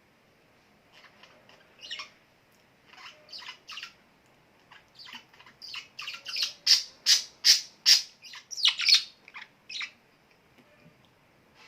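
A bird calling in a run of short, sharp, high chirps, a couple a second, growing louder and quicker towards the middle and stopping near the end.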